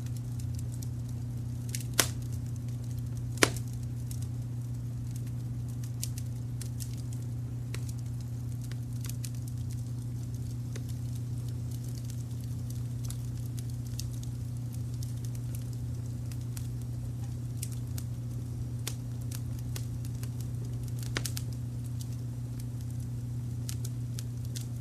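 Wood fire crackling with scattered small clicks and two loud, sharp pops a second and a half apart near the start, over a steady low rumble of brown noise.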